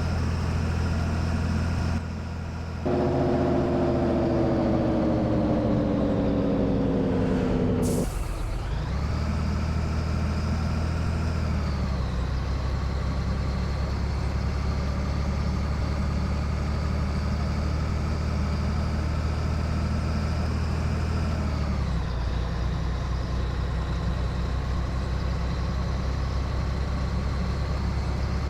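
Scania 113 truck's six-cylinder diesel engine running. A loud drone falls steadily in pitch for about five seconds and ends about 8 seconds in with a sharp hiss of released air. The engine then runs on steadily, its pitch dipping twice, about 12 and 22 seconds in.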